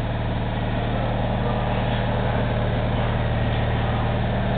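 Steady low mechanical hum with an even, unchanging drone.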